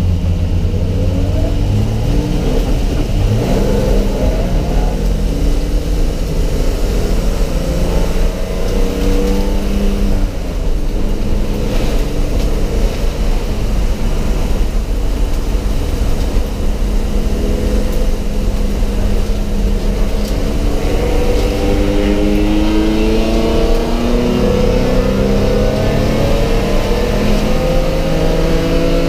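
Race car engine heard inside a stripped, roll-caged cabin, pulling hard on track with its revs rising and falling through gear changes. In the last third the pitch climbs steadily, gear after gear, as the car accelerates.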